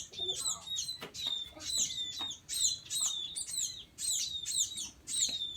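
A flock of munias (emprit) chirping, with many short, high, downward-sweeping calls overlapping several times a second. A single sharp click comes about a second in.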